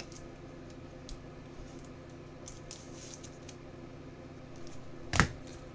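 Trading cards being handled on a table: faint rustles and small clicks over a steady low hum, with one sharp tap about five seconds in.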